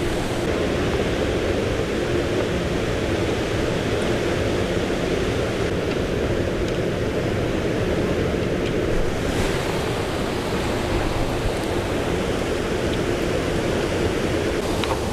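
Steady, even rushing of water, without a break or a rhythm.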